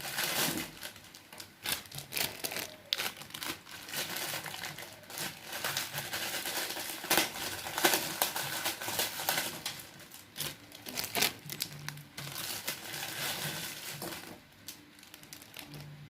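Plastic packaging being handled, crinkling and crackling in irregular bursts; it eases off near the end.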